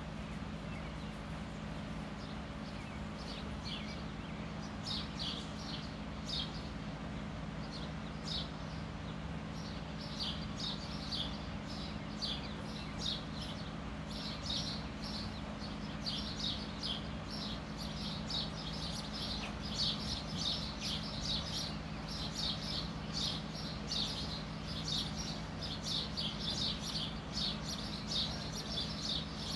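Small birds chirping, short high chirps that start sparse and come thicker and faster from about a third of the way in, over a steady low hum.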